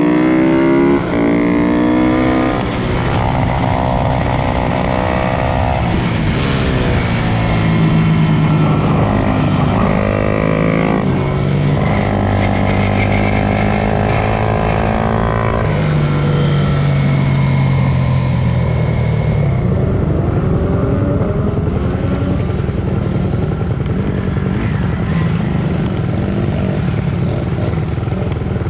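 Several pit bikes racing, their small motorcycle engines revving up and dropping back again and again through gear changes, overlapping and loud.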